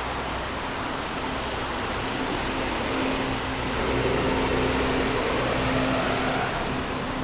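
Steady rushing of a small stream's running water, with a low traffic-like hum underneath; it grows somewhat louder from about three to six seconds in.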